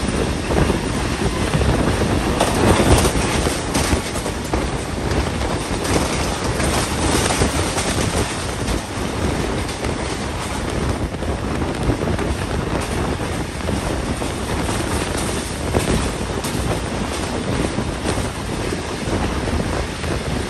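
Passenger train running at speed, heard from on board: a steady rumble and rush of wheels on the rails with wind buffeting the microphone.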